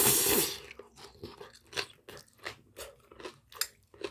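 Close-up chewing of a mouthful of spicy stir-fried webfoot octopus with rice and bean sprouts: short wet crunching clicks about three a second, after a brief loud rush of noise at the start.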